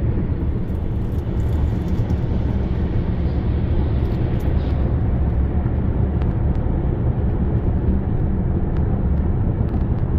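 Steady low rumble of a moving vehicle, with an even noisy hiss and a few faint clicks.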